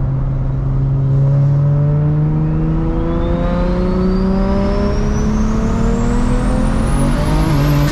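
BMW 335i's N54 inline-six with a big single turbo, on E85, under a full-throttle pull from about 3,000 rpm. This is a datalogged pull for tuning. The engine note climbs steadily in pitch, and a high turbo whine rises sharply above it from about two and a half seconds in.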